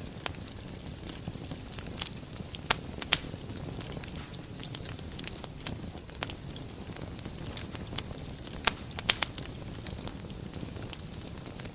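Wood fire burning in a fireplace: a steady low rumble of flames with frequent sharp crackles and pops, a few of them louder than the rest.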